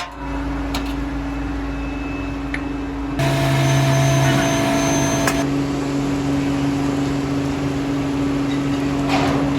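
Workshop machinery running with a steady hum. About three seconds in, a louder rushing noise with a thin whine joins for about two seconds, then the hum carries on.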